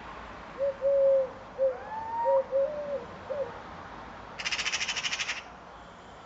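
Birds calling: a run of short, low pitched notes, one of them gliding upward, followed about four seconds in by a fast rattling call lasting about a second.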